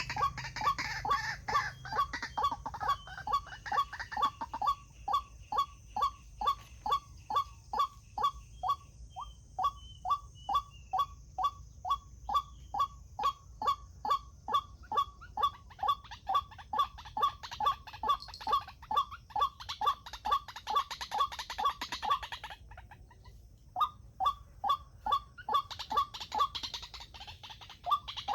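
White-breasted waterhen calling: a monotonous run of short, clipped notes, about two a second, broken by a pause of about a second near the end.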